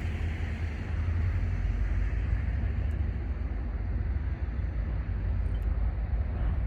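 EMD GP40-2 diesel locomotive running steadily, a continuous low engine rumble.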